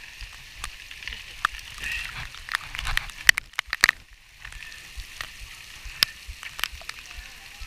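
Rain falling, with irregular sharp ticks of drops close to the microphone over a steady hiss.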